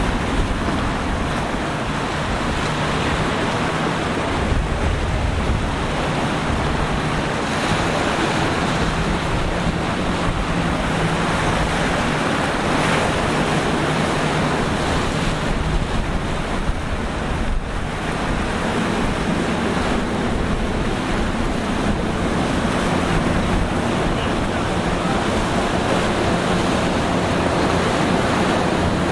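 Rough surf and breaking waves with wind buffeting the microphone, under a steady low hum of boat engines.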